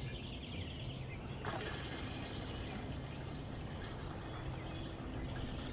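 Gasoline pouring from a new-style gas can into a sawmill's fuel tank, a steady trickle.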